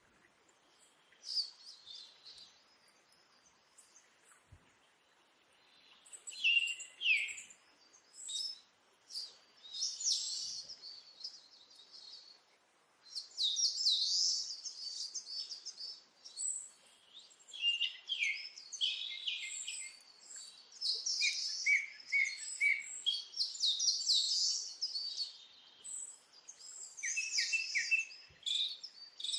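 A parrot chirping and twittering in quick high runs of notes, in bursts separated by short pauses.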